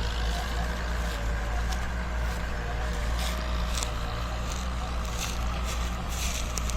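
Farm tractor's diesel engine running steadily under load, pulling a disc harrow through sugarcane leaf trash, with scattered crackles on top.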